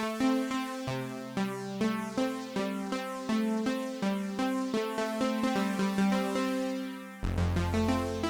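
Polymax software synthesizer playing a preset: a rhythmic sequence of short pitched notes that die away quickly, about three a second. About seven seconds in, it switches to a different patch with a deep bass underneath.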